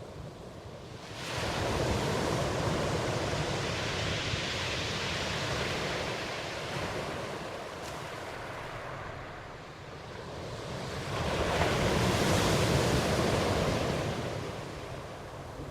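Ocean surf, with waves surging in and washing back. One wave swells about a second in and slowly fades. A second swell rises about two-thirds of the way through and falls back.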